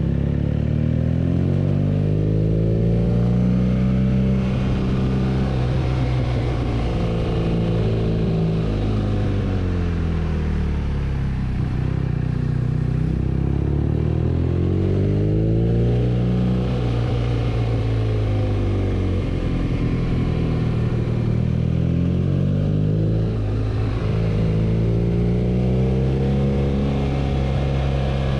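BMW R nineT's 1170 cc boxer twin engine running on the move, its pitch rising and falling several times as the throttle is opened and closed.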